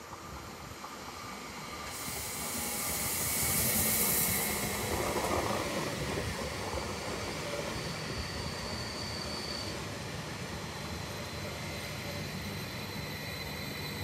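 Leo Express Stadler FLIRT electric multiple unit arriving along the platform: a rumble of the train on the rails that swells over the first few seconds, with a loud hiss from about two to four seconds in and faint high squealing near the middle.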